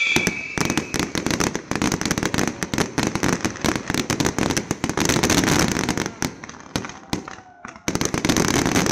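Aerial fireworks going off in dense volleys of rapid crackling pops over a low rumble, with a short lull about eight seconds in before another burst of crackling.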